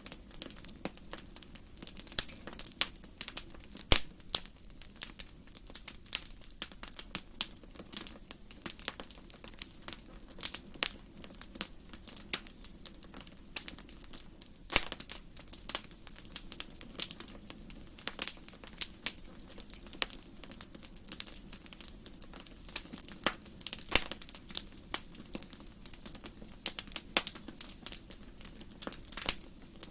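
Wood fire in a fireplace, crackling and popping irregularly over a low steady hiss of burning, with a few sharper, louder pops.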